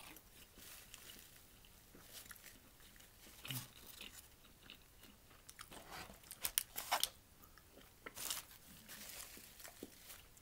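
Close-up biting and chewing of a sauced chicken sandwich: soft crunches and wet mouth clicks at irregular intervals, with a cluster of sharper clicks about six to seven seconds in.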